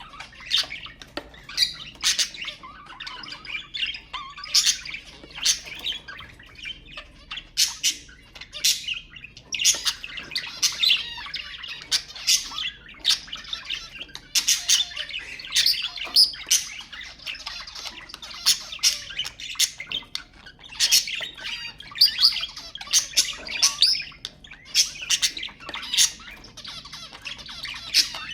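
Budgerigars chattering: continuous warbling with frequent sharp, high chirps and squawks.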